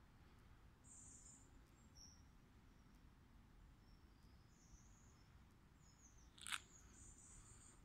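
Near silence with faint, high-pitched bird chirps every second or two. One brief, sharper and louder sound comes about six and a half seconds in.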